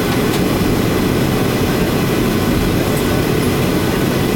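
Steady, loud rumble inside the cabin of a Boeing 737-800: engine and airframe noise, even and unchanging, with a fainter hiss above it.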